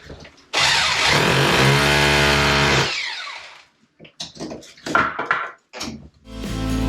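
A power tool motor starts suddenly about half a second in and runs at full speed for about two and a half seconds. It is then released and spins down. A few scattered knocks and clicks follow, and background music comes in near the end.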